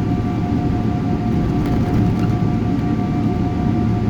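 Airliner cabin noise just after takeoff: a steady deep rumble from the engines and airflow, with a steady high hum from the jet engines on top.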